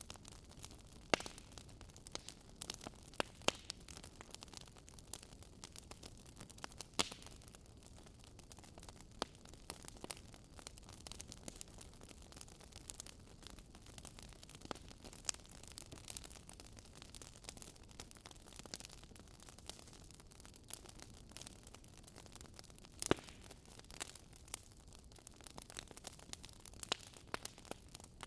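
Campfire crackling: irregular sharp pops and snaps of burning wood over a faint low hiss, with a louder pop about a second in and another late on.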